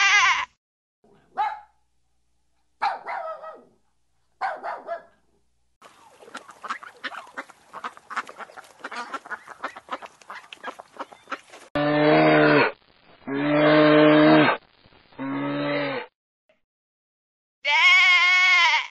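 A series of separate animal calls: a few short calls, a stretch of crackling, rustling noise lasting about six seconds, then three long, low, steady calls one after another, and a higher, wavering call near the end.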